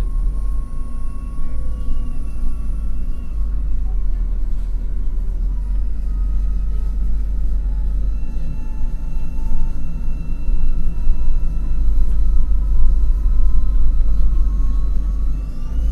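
MAN NL253 Hybrid city bus under way: a steady low drivetrain rumble with a faint electric whine that slowly glides in pitch. Near the end the whine begins to rise steeply as the bus picks up speed.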